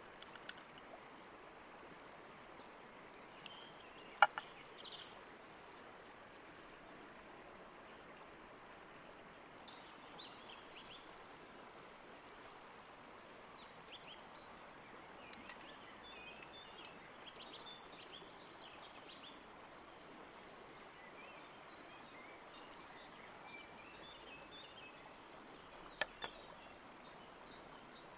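A creek running steadily, with small birds chirping now and then and a few sharp clicks, the loudest about four seconds in.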